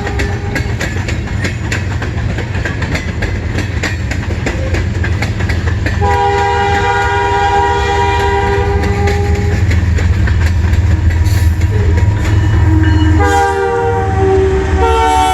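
CN freight train's diesel locomotive horn, a multi-tone chord, blowing two long blasts, the second starting about two seconds before the end with a short break, over the train's steady low rumble and clicking wheels on rail joints.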